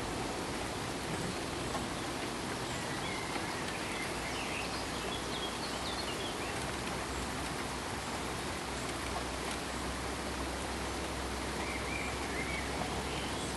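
Steady pink noise: an even, unchanging hiss spread across all pitches, heavier in the low end. A few faint short chirps sit on top of it about three to six seconds in and again near the end.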